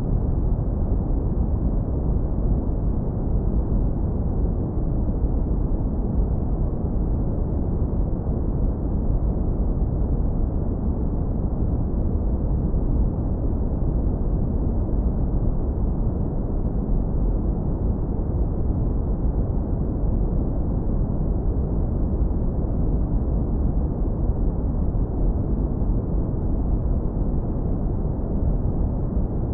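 Synthetic brown noise, heavily lowpass-filtered so only a deep, warm rumble remains. It is steady and unbroken, with no events or changes.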